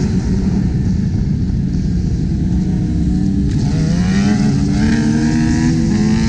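Sport motorcycle engines running hard over a steady rumble. Several engine notes rise in pitch through the second half as the bikes accelerate.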